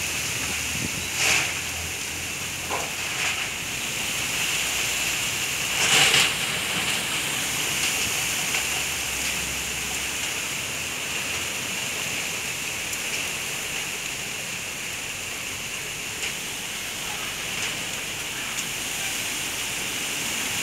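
Steady rushing noise of a strong storm wind, with two brief louder swells about one second and six seconds in.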